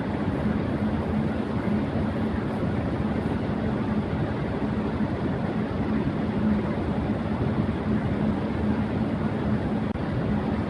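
Electric fan running at high speed: a steady rush of air with a low, constant hum underneath.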